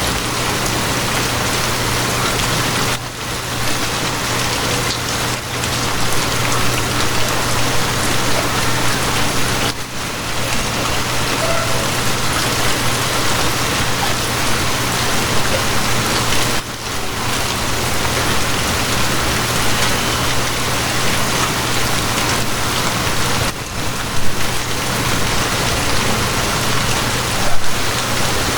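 Steady rain making an even, dense hiss, with a low steady hum underneath. The rain briefly drops away every six or seven seconds.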